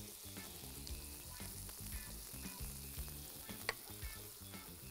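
Faint sizzling of cored apple rings and batter frying in a hot pan, with one sharp click about three and a half seconds in.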